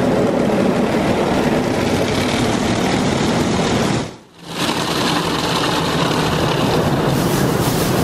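Automatic car wash equipment running: a loud, steady rush of machinery and spray noise, which drops away briefly about four seconds in and then returns with more hiss.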